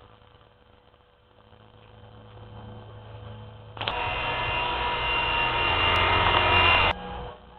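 E-flite MSR micro electric helicopter's motor and rotor whining steadily in flight. The whine starts abruptly about halfway through and cuts off suddenly near the end, after a quieter stretch with only a faint hum.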